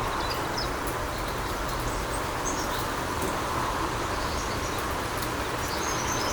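A few faint, short bird chirps, about three seconds in and again near the end, over a steady background hiss and hum.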